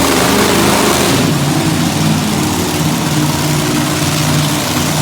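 Monster truck engine running loud, its pitch shifting a little. A broad roar over it drops away about a second in, leaving a steadier engine note.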